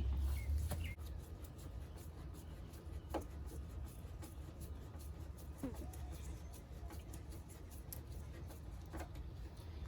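Faint scraping and a few light clicks of a screwdriver driving the old factory screws that hold a car's corner lamp in place, over a low steady hum.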